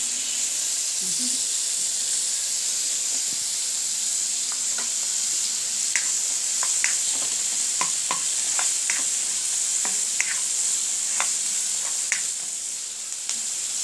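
Steady sizzle of oil frying, from chopped onions and garlic sautéing in a wok and fish frying in a pan beside it. From about four seconds in, a spatula clicks and scrapes against the wok a dozen or so times as the onions and garlic are stirred.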